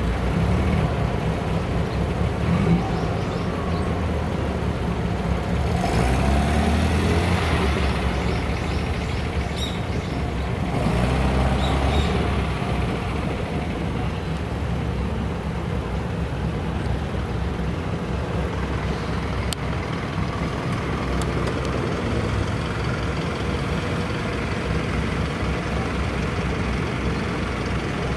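Classic cars' engines running and driving past in traffic, with two louder swells of engine noise about six and eleven seconds in as cars pass close by.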